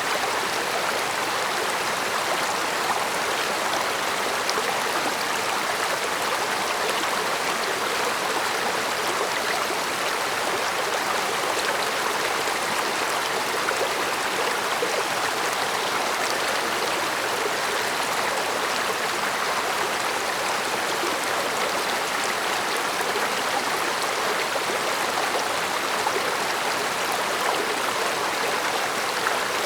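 A stream's water flowing steadily in an even, unbroken murmur.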